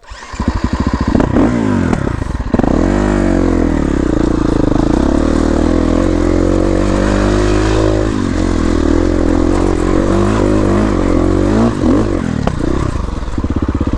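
Enduro dirt bike engine revving up and down close by as it works through a hard section, the pitch rising and falling repeatedly, with clatter from the bike.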